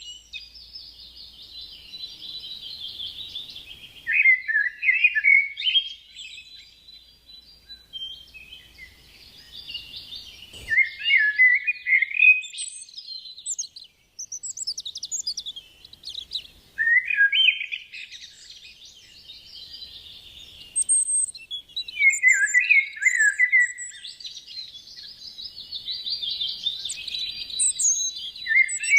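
Songbirds singing: a constant high twittering chatter, with louder warbling song phrases breaking in about every six seconds.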